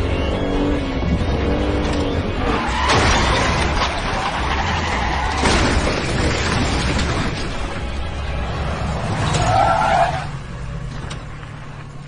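Car-chase sound effects mixed over tense dramatic score: car engines and skidding tyres, with loud noisy surges about three and five and a half seconds in, and a tyre squeal near ten seconds, after which it quietens.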